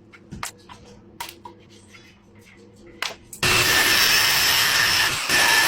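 A few clicks and knocks of handling, then about three and a half seconds in a power tool starts abruptly and runs loud and steady, with a brief dip near the end.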